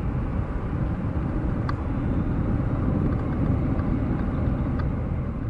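Airbus A330-200's Pratt & Whitney PW4168A turbofans heard from the ground on departure: a steady, deep jet rumble.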